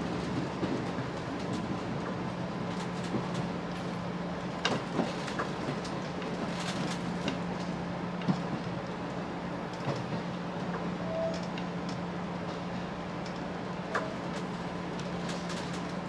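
Cabin noise inside a 381-series limited express electric train on the move: a steady rumble of wheels on rail with a constant low hum, and scattered sharp clicks and knocks from the track and car body.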